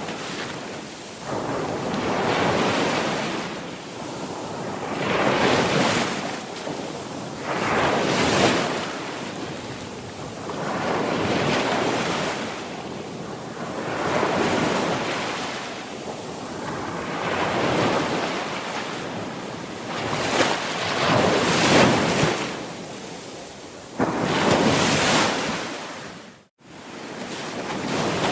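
Sea waves breaking and washing up the shore in repeated swells, one about every two to three seconds. Near the end the sound cuts out for a split second and comes straight back.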